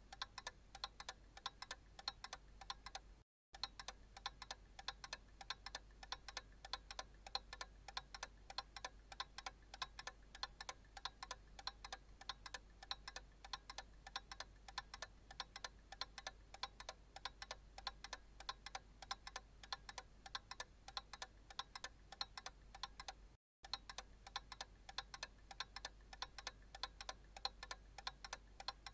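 Analog clock ticking in an even, steady rhythm, broken twice by a split-second gap of silence, with a faint low hum underneath.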